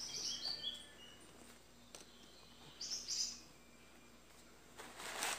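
A bird chirping in the background: short high calls at the start and again about three seconds in.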